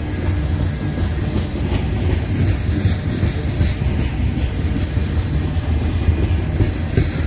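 A train rolling past on the track: a steady low rumble of wheels on rail, with faint clicks of wheels over rail joints.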